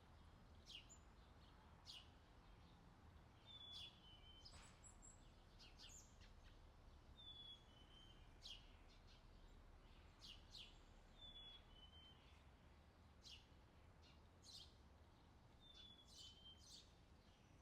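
Faint summer outdoor ambience: a songbird repeats a short two-note call falling in pitch about every four seconds, among scattered brief sharp chirps over a low steady background hum.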